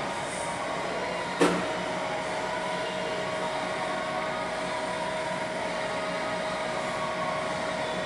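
Takisawa TAL 560 general-purpose lathe running with a steady machine hum. A sharp clunk comes about one and a half seconds in, after which a steady whine holds.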